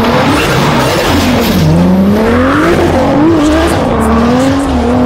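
Toyota Supra MK4's inline-six accelerating hard. The engine note climbs, drops at a gear change about a second and a half in, then climbs again through the next gear.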